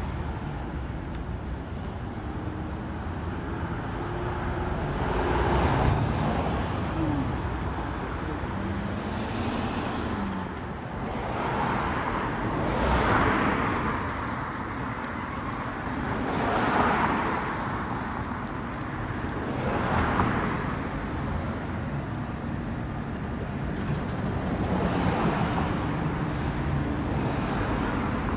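Street traffic, with vehicles passing one after another, each swelling up and fading away over a steady road rumble.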